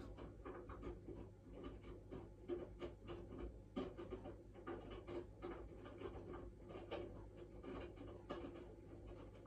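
Washing machine drum turning the wet laundry slowly: a faint steady motor hum with soft, irregular swishing and flopping of the clothes. The machine is tumbling without going into a spin, because of a fault.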